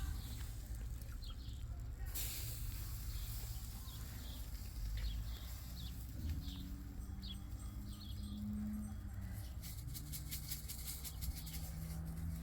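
Small birds chirping in short repeated calls over a low rumble of outdoor background noise, with a brief burst of noise about two seconds in and a quick run of rustling clicks near the end.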